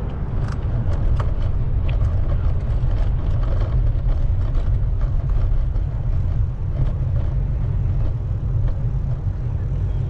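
Wind rumbling on the microphone of a moving bicycle, steady and low, with a few light ticks in the first two seconds.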